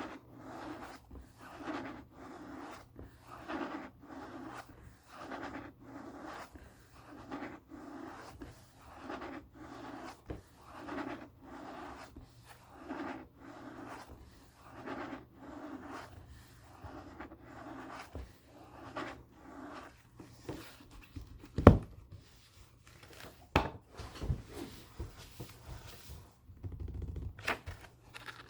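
Book pages riffled in quick succession, a soft papery swish about twice a second, then a sharp knock against the book about two-thirds of the way in and a lighter one soon after.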